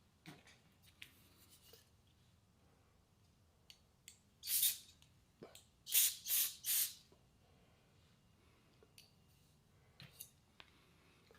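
Short hissing bursts from a spray nozzle: one about four and a half seconds in, then three quick ones about six to seven seconds in, with scattered light clicks and taps around them.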